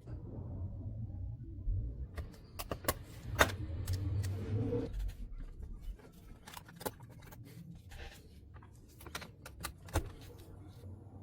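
Irregular sharp clicks and clinks of small metal objects being handled, busiest in the first half, over a low rumble.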